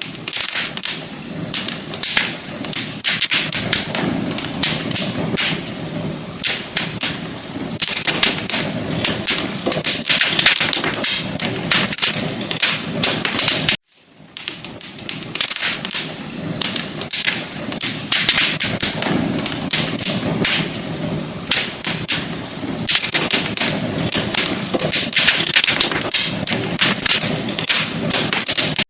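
Wood fire crackling in a fireplace: dense, irregular pops and snaps over a soft hiss. The sound cuts out for a moment about halfway through, then starts again.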